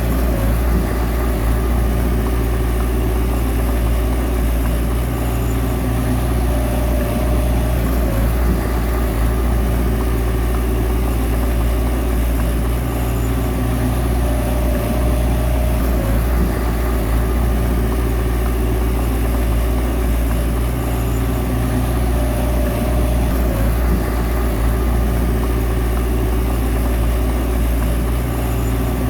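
Heavy diesel engine of a bulldozer running steadily, with a constant deep drone.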